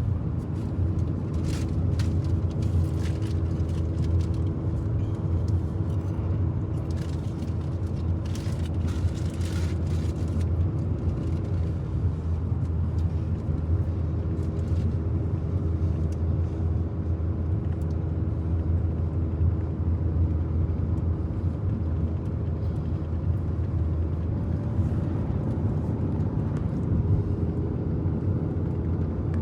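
Steady low drone of a truck driving down the road, engine and road noise heard from inside the cab, with a few faint clicks in the first ten seconds.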